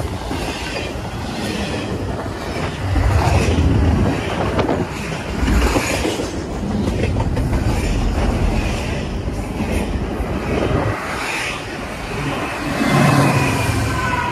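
Double-stack intermodal freight cars of a CSX train rolling past close by, steel wheels clattering over the rail joints in a steady, swelling rumble.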